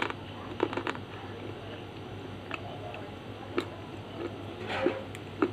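Slate pencil being chewed: about half a dozen sharp, irregular crunches, the loudest just before the end.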